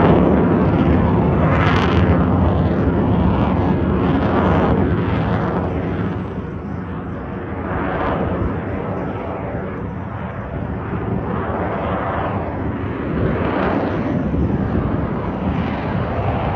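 Aircraft flying over at an air show, a loud, continuous rumble of engine noise. It is loudest at the start, dips around the middle, and swells again later.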